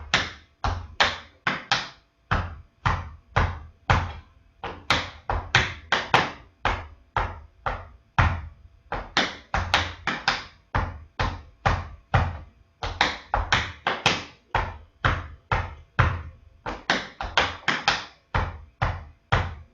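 Tap shoes striking a hard floor in a steady rhythm of sharp taps, brushes and heel drops, about two to three strikes a second in repeating groups.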